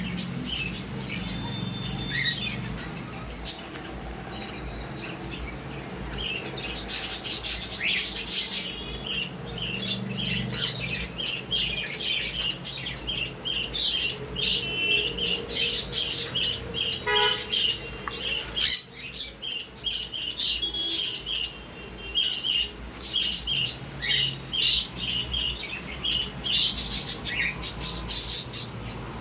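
Parrots chirping and squawking in a continuous run of short, high calls, with a few louder bursts of chatter and a brief lull a little past the middle.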